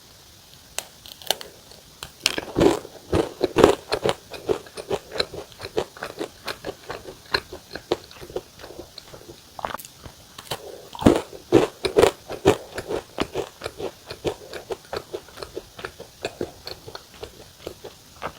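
Close-up crunching of a crisp apple caramel cookie being bitten and chewed, with two clusters of louder bites about two and a half seconds in and again about eleven seconds in, and steady crunchy chewing between.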